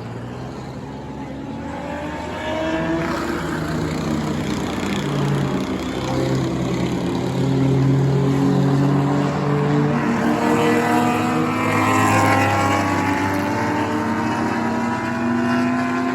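Engines of several enduro race cars running together on the track, their pitches rising and falling as the cars pass; the sound builds up over the first few seconds and stays loud.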